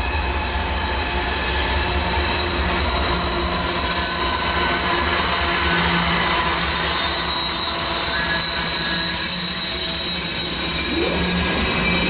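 Two Norfolk Southern GE diesel locomotives, an AC44C6M and a D9-44CW, pulling a loaded coal train close by with a steady low engine rumble. A thin, steady high squeal from the wheels on the rail runs over it.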